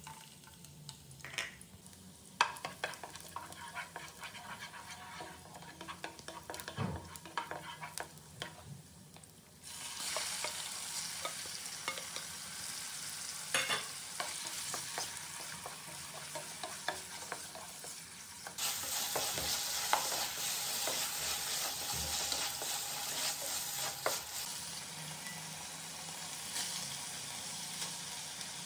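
Chopped garlic and then chicken pieces sizzling in hot oil in a nonstick pot, with a spatula clicking and scraping against the pan as they are stirred. The sizzle gets louder about ten seconds in, and louder again for a few seconds past the middle.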